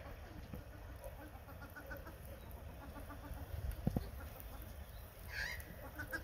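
Birds calling faintly in the background, in quick runs of short chirps, with one call falling in pitch about five seconds in. A low knock sounds just before four seconds in.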